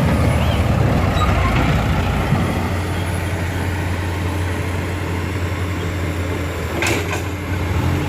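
Heavy diesel engines of an excavator and dump truck running steadily with a low hum, with a brief sharp noise about seven seconds in.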